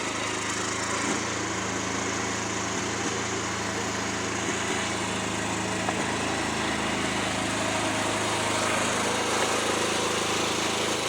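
Small lawnmower engine running steadily with a few faint ticks. The engine has been stumbling as if misfiring, and the owner takes this for a fuel problem.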